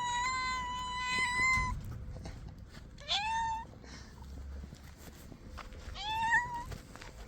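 Hungry stray cats meowing loudly. A long, held meow overlaps a second cat's meow at first. Two shorter meows rising in pitch follow, about three and six seconds in.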